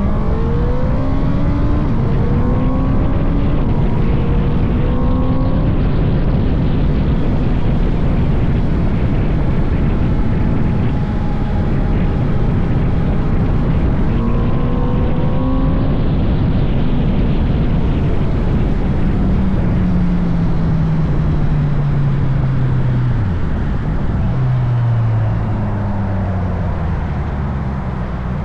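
Suzuki Hayabusa's inline-four engine pulling up through the gears, its pitch rising in steps, then winding down from about two-thirds of the way in, with a downshift near the end. Heavy, steady wind rush across the helmet-mounted microphone runs under it all.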